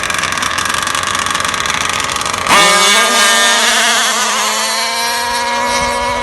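Two-stroke engine of a gas-powered 1/5-scale RC drag car idling. About two and a half seconds in, the throttle opens: the engine suddenly gets much louder and shoots up to a high-pitched scream at full revs, then holds that high note while slowly fading.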